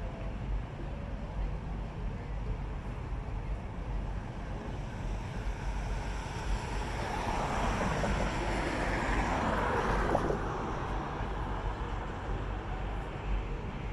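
A road vehicle passing by the crossing: a swell of tyre and road noise that builds about seven seconds in, peaks around ten seconds and fades, over a steady low rumble.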